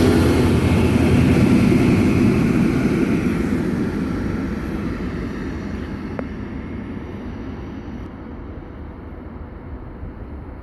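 A regional diesel train pulling out of the station, its running rumble and rail noise fading steadily as it moves away. A faint click sounds about six seconds in.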